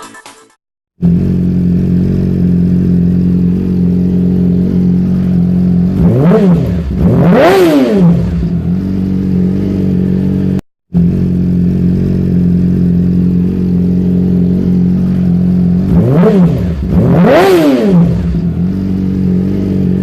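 Yamaha R6's inline-four engine through a Leo Vince full-system exhaust, idling steadily and blipped twice in quick succession, each rev rising and dropping straight back to idle. After a brief cut about halfway, the same idle and two quick revs come again.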